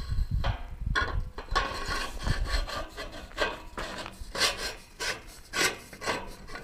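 A large gate being swung open on its post, with a repeated rasping scrape and creak from the hinge at roughly every half second.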